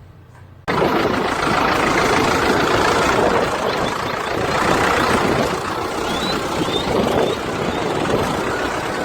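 Farm tractor's diesel engine running steadily and loudly close by, cutting in abruptly under a second in.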